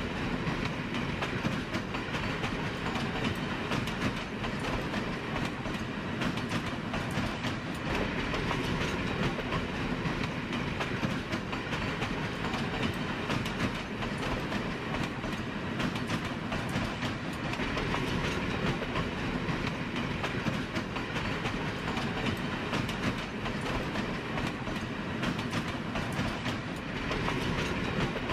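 Train running on rails: a steady rumble with the clatter of wheels on track.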